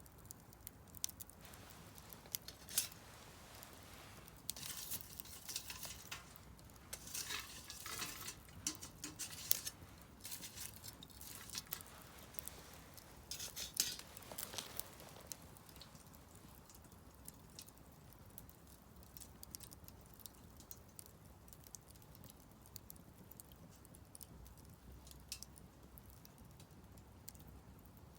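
Wood fire crackling in a Solo Stove Campfire fire pit, with sharp pops and ticks of burning logs. The pops come in thick clusters through the first half and thin out to occasional snaps later.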